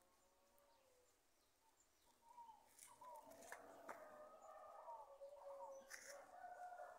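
Faint birds calling in the background: many short, overlapping chirps that start about two seconds in and carry on.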